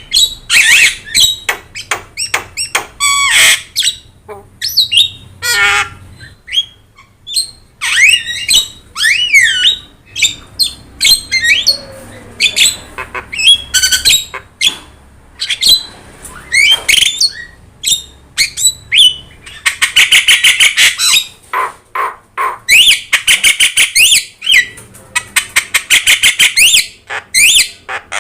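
Javan myna singing vigorously: a varied mix of harsh squawks, chatters and gliding whistled notes, broken by fast rattling runs of repeated notes in the second half.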